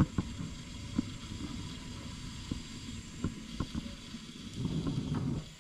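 A handful of light knocks and clicks of pots and utensils being handled on the stove, over a low steady rumble.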